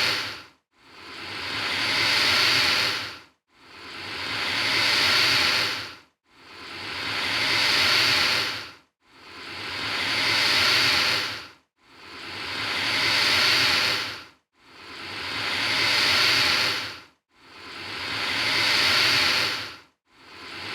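Alligator hissing, the same long hiss repeated about every three seconds. Each hiss swells gradually and then cuts off sharply, with a short gap before the next.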